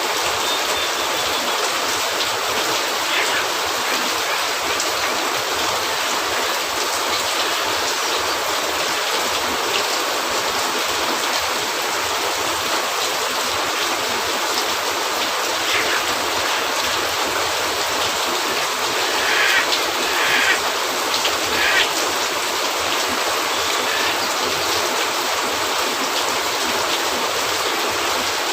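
Steady rain on a cabin roof, an even dense hiss, with a few short sharp crackles from a fireplace, clustered about two-thirds of the way through.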